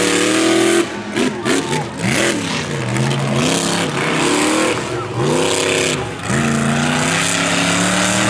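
Monster truck engine revving hard, its pitch rising and falling again and again with brief dips off the throttle.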